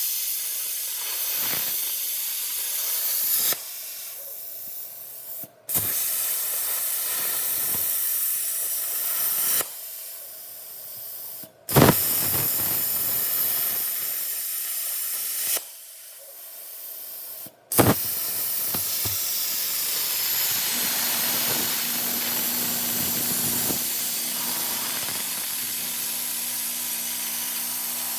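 Handheld-class CNC plasma cutter (ArcDroid) cutting a steel exhaust flange: a loud steady hiss of the plasma arc and air, dropping away between cuts and restarting with a sharp crack at each arc start. There are four cutting passes, and a low steady hum joins in the last one.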